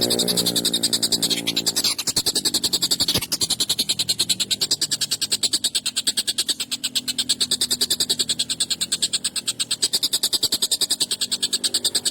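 Tengkek buto calling in a fast, harsh, continuous rattle of roughly eight to nine sharp notes a second, high-pitched and unbroken.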